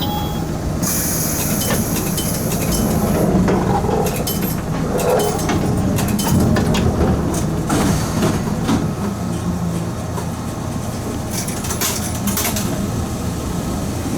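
Eizan Electric Railway train running on the Kurama Line: a steady rumble of motors and wheels on the rails, with scattered clicks and a high hiss for a couple of seconds about a second in.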